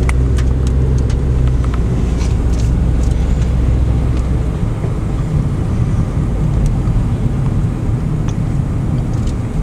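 Car engine and road noise heard from inside a moving car: a steady low hum that loosens into a rougher rumble about four and a half seconds in, with a few faint clicks.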